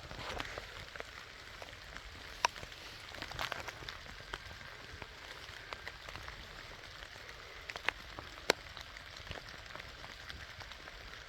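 Steady rain falling, with scattered sharp ticks; the loudest come about two and a half and eight and a half seconds in.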